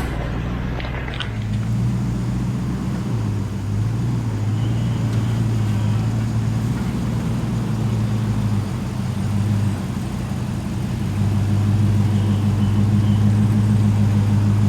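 4WD engine running steadily at low revs while climbing steep off-road hills, a low hum that dips and rises slightly in pitch a few times.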